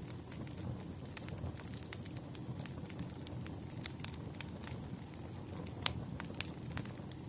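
Wood fire burning, with a steady low rumble and many irregular sharp crackles and pops from the burning logs; the loudest pop comes about six seconds in.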